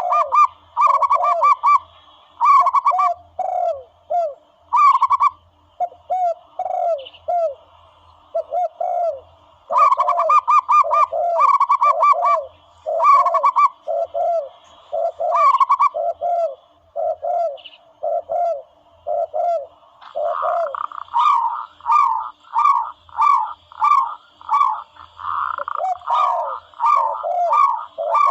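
Zebra dove calls played as a hunting lure: quick strings of short, soft coos in bursts, running almost without pause in the last third, with fainter higher chirps alongside.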